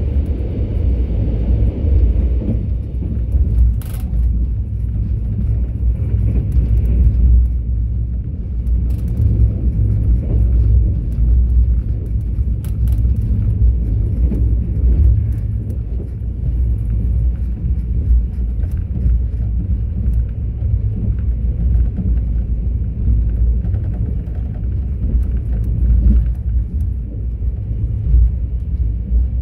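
Mugunghwa-ho passenger train running along the track: a steady low rumble with a few faint clicks.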